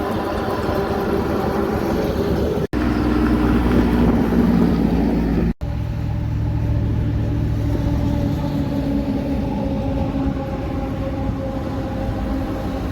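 Heavy trucks running along a road, engines and tyres going steadily, with the sound cutting out for an instant twice. Between the two cut-outs a truck is louder and deeper, as if passing close.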